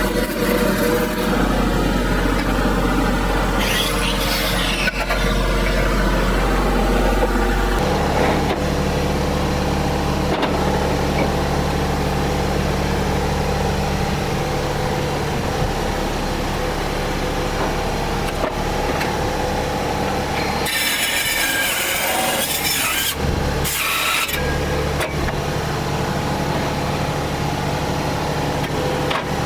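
An engine running steadily, changing speed about eight seconds in. Short bursts of harsh, rasping noise come about two-thirds of the way through.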